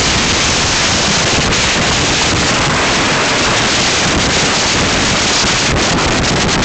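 Strong wind blasting across the camera microphone: a loud, unbroken rush of noise.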